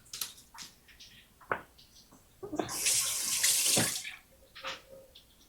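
A kitchen tap running for about a second and a half, then shut off, with a few light knocks around it.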